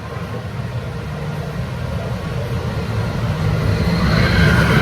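Amusement park ride moving off after the all-clear: a low rumble builds steadily, with wavering high-pitched sounds rising over it near the end.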